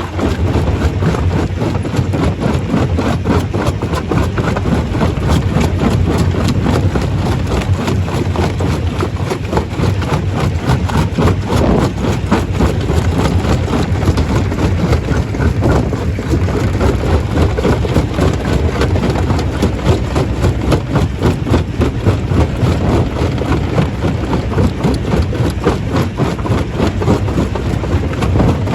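Stone crusher running under load: a steady heavy machine drone with a dense, continuous clatter and rattle of rock being broken.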